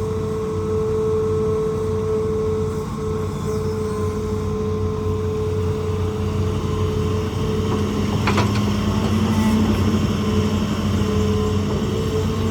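Hitachi ZAXIS200 excavator's diesel engine running steadily under hydraulic work, with a steady whine on top. A single sharp clank about eight seconds in, after which the machine gets slightly louder for a couple of seconds.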